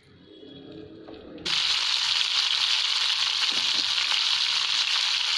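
Stuffed small bitter gourds shallow-frying in oil in a kadai: a loud, steady sizzle that cuts in suddenly about a second and a half in, after a quiet start.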